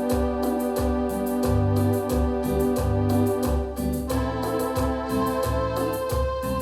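Yamaha DX7 FM synthesizer playing a held chord over a moving bass line, with quick repeated note attacks; the chord changes about four seconds in.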